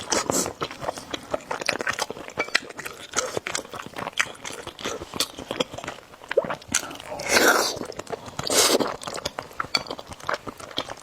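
Close-miked eating of spicy noodles with eggs: steady chewing with many short wet clicks and smacks, and two longer noisy mouth sounds about two-thirds of the way through.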